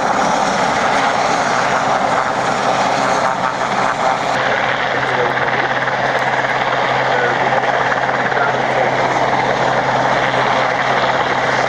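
Westland Sea King search-and-rescue helicopter in flight, its rotor and twin turbines giving a loud, steady noise with a constant low hum beneath.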